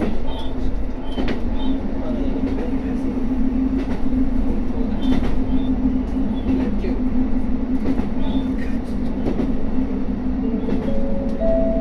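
Diesel local train running along the track, heard from inside the car: a steady low drone with scattered clicks of the wheels over rail joints. Near the end, a few short whining tones step up in pitch.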